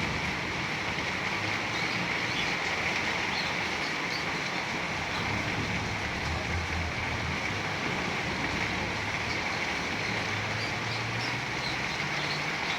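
Heavy rain falling steadily in a dense hiss, with an uneven low rumble underneath and a few faint high chirps.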